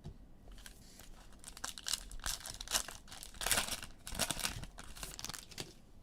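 A trading-card pack's foil wrapper being torn open and crinkled by hand, in a run of irregular rips and rustles that are loudest around the middle.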